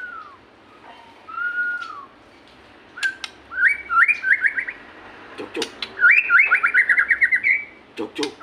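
White-rumped shama (murai batu) singing: two slow arched whistles, then two runs of quick repeated rising notes, the second longer, with a few sharp clicks between phrases.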